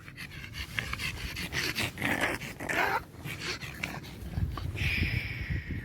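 A dog panting close to the microphone in quick, uneven breaths, with a short high whine near the end.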